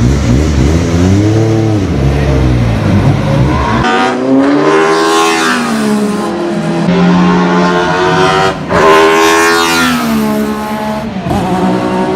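The 2.5-litre V6 race engine of a 1994 Alfa Romeo 155 V6 Ti DTM being revved. It starts low and uneven for the first few seconds, then its pitch rises and falls in several rev sweeps, the highest about nine seconds in.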